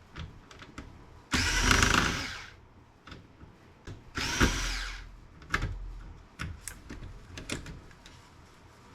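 A cordless power drill or driver runs in two short bursts, the first about a second long and trailing off, the second a little shorter. Scattered light clicks and taps of small laptop parts being handled follow.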